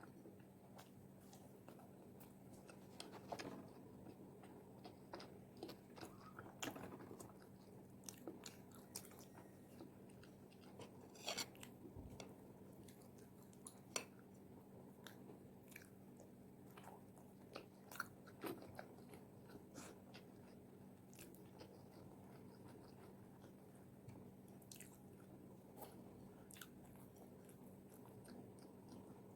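Close-up chewing of crispy fried chicken wings: irregular crunches and crackles of the fried skin with soft chewing between, over a faint steady hum.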